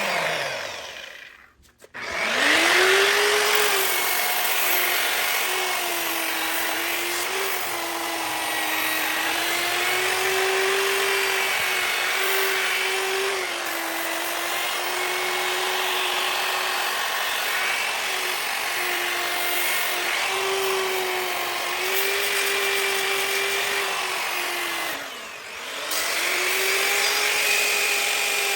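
Bauer variable-speed grinder with a sanding pad, grinding a cast iron skillet: a motor whine over harsh scraping of abrasive on iron, its pitch dipping and recovering as the pad is pressed on. It winds down near the start, spins back up about two seconds in, and sags and recovers again near the end.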